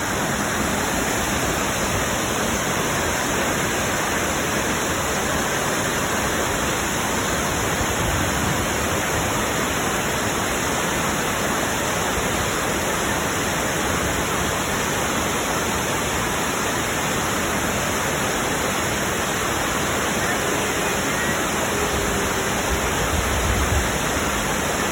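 Anna Ruby Falls, a waterfall, crashing onto the rocks in a loud, steady rush of water.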